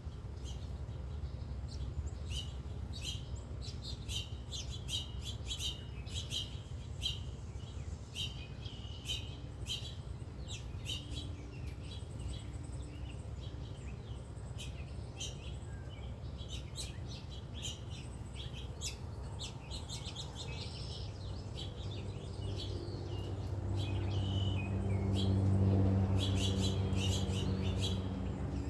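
Many small birds chirping and tweeting in quick, repeated high notes over a steady low rumble. In the last few seconds a low, engine-like hum swells up and becomes the loudest sound.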